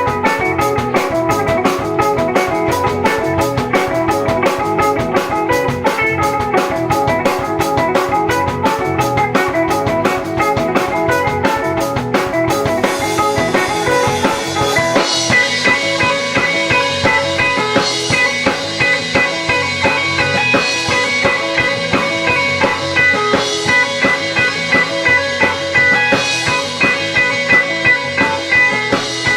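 Rock band playing live, electric guitar over a drum kit. A fast, steady beat drives the first half; about halfway through the song changes to a looser section with held guitar notes and a few cymbal crashes.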